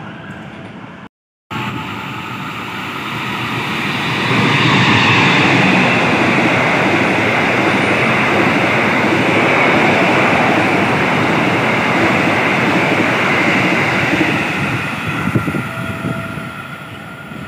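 Passenger train of silver stainless-steel coaches passing close through the station at speed: a steady rush of wheel-on-rail noise that swells a few seconds in, holds loud through the middle and fades near the end.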